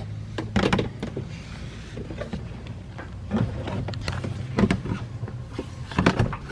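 Plastic under-engine cover being handled and fitted back into place under the car: scattered knocks, clicks and scrapes a second or so apart, over a low steady hum.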